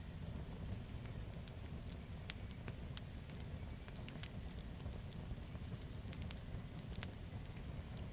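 Campfire burning, with a steady low rumble of the flames and frequent sharp crackles and pops of the burning wood at irregular intervals.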